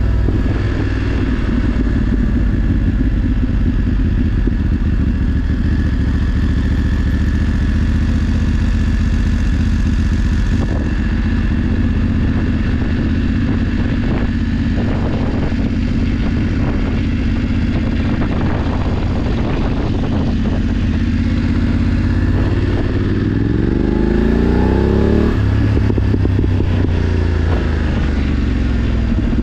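BMW F 850 GS Adventure's parallel-twin engine running steadily under way, over a constant rush of wind noise. Near the end the engine note climbs as it accelerates, then drops sharply.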